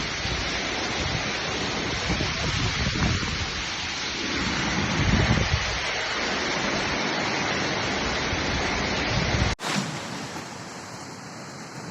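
Rushing storm water: a dense, steady hiss of heavy rain and running floodwater, with low wind buffets on the microphone. About nine and a half seconds in it cuts abruptly to a quieter, thinner hiss.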